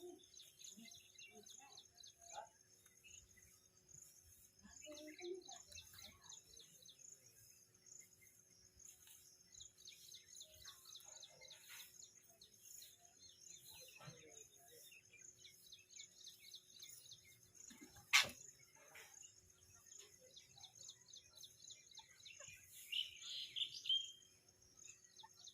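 Faint outdoor ambience: small birds chirping in quick repeated calls over a steady high drone of insects. There is one sharp click about two-thirds of the way in, and a louder burst of bird calls near the end.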